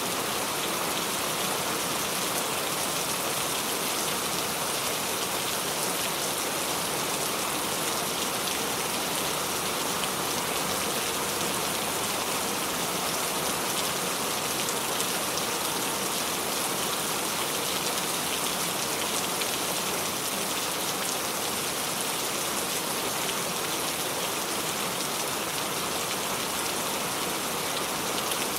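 Steady rain falling on a surface, an even hiss with many fine pattering drops.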